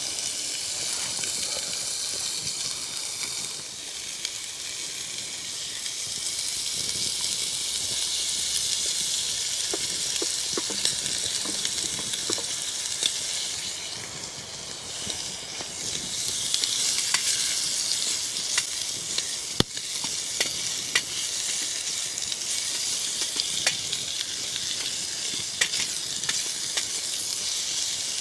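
Food sizzling as it fries in a steel pot on a small wood-burning stove, stirred with a wooden spoon, with occasional sharp clicks.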